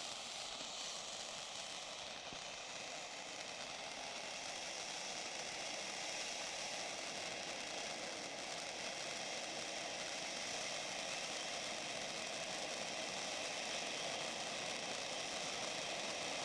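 Firework fountain burning, a steady hissing spray of sparks that grows slightly louder over time.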